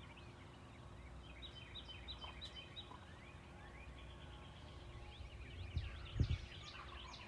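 Songbirds chirping in a dawn chorus, with a distant wild turkey gobble. The hunters take the gobble for a long beard, a mature Osceola gobbler. A low thump comes about six seconds in.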